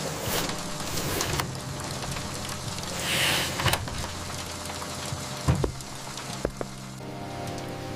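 Steady rain, with soft background music underneath and a few short clicks. A new music phrase comes in near the end.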